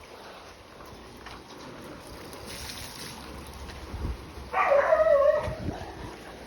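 Faint steady outdoor noise, then a little past the middle a high, wavering cry that lasts about a second.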